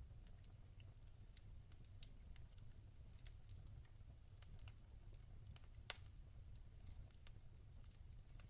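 Log fire crackling: faint, scattered sharp snaps and pops over a low steady rumble, with one louder snap about six seconds in.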